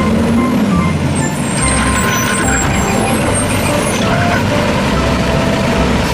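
A garbage truck's engine running with a steady low rumble, under a constant noisy hiss.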